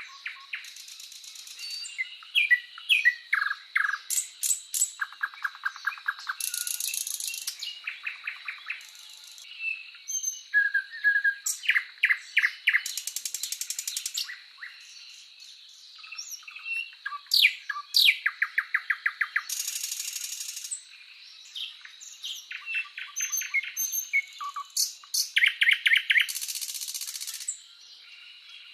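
Several songbirds singing and calling at once: sharp chirps, fast rattling trills and buzzy bursts repeating over and over, with a faint steady high tone underneath.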